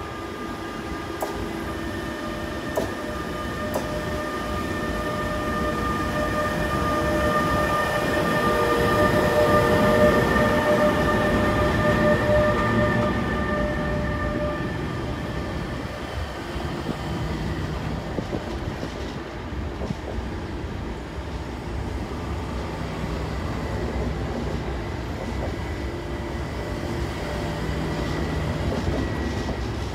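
NS Bombardier TRAXX electric locomotive and its intercity coaches passing at low speed. There is a steady whine from the locomotive's electric drive, loudest about a third of the way in, then the coaches rolling past.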